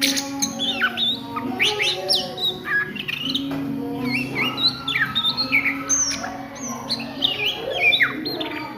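Oriental magpie-robin (kacer) singing a fast, varied run of short whistled notes with sharp up- and down-slurs, the chattering daytime song that bird keepers call ngriwik. A low, steady hum of held tones sits underneath.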